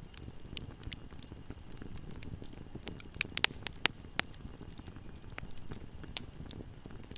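Campfire burning: a steady low rumble of flames with scattered sharp crackles and pops, a quick cluster of the loudest pops about three to four seconds in.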